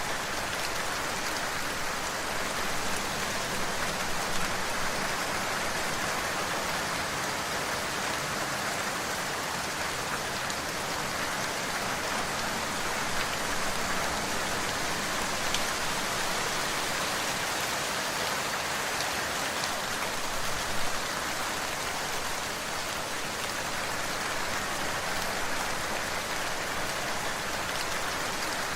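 Steady rain falling on a surface, an even hiss with occasional faint drop ticks.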